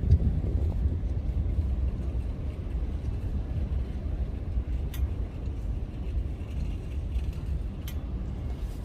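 Wind buffeting the phone's microphone: a low, unsteady rumble, with a couple of faint clicks.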